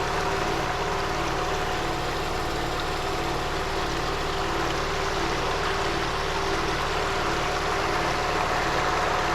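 A boat's engine running steadily at low speed, a constant drone with a steady hum, over the rush of water along the hull.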